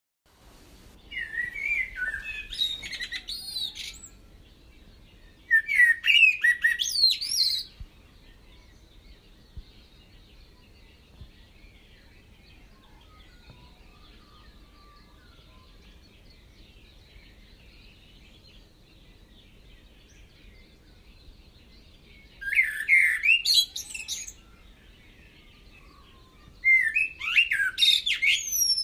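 A bird singing four phrases of rich, warbling whistles that slide up and down, each two to three seconds long: two near the start, then a long gap, then two more near the end. A faint steady hiss runs underneath.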